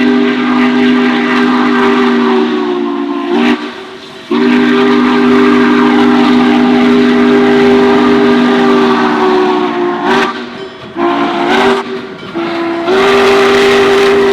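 Locomotive air horn sounding a chord of several steady tones: a long blast that breaks off about three and a half seconds in, another long blast of about six seconds, a few short toots around ten to twelve seconds in, then a long blast again near the end.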